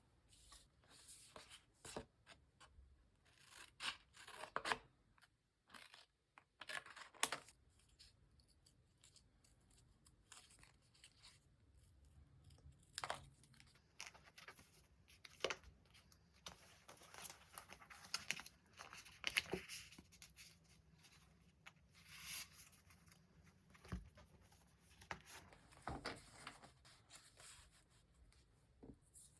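Faint paper and sticker handling for diary decorating: stickers peeled from their backing and paper crinkling, with scattered short clicks and taps throughout.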